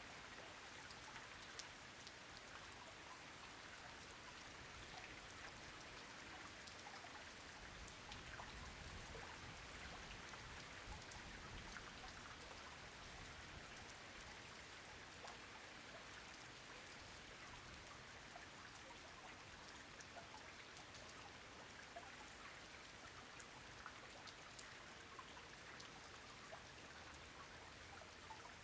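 Steady rain falling on a pond, a soft even patter scattered with many small drop ticks.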